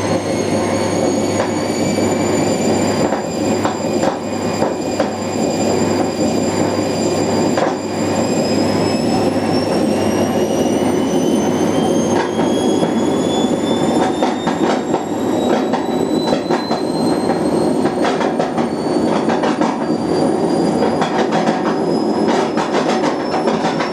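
Whirlpool WWDC 7210/1 washer-dryer on its spin: the motor's whine rises slowly in pitch over a loud rumble, with irregular rattling knocks that grow thicker in the second half. The owner suspects the noises could be the drum suspension.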